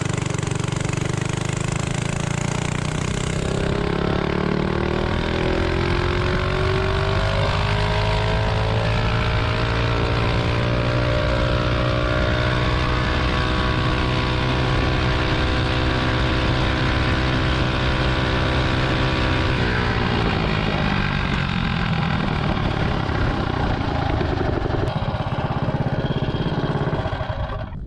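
Predator 212 Ghost single-cylinder engine on a stage 2 mini bike at full throttle on a top-speed run. Its pitch climbs over the first ten seconds or so and then holds steady at top speed. About twenty seconds in it drops as the throttle comes off.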